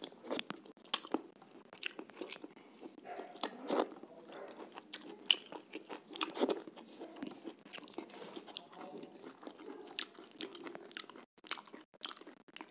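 A person chewing and biting chicken curry eaten by hand, with irregular sharp clicks and crunches as he bites and chews.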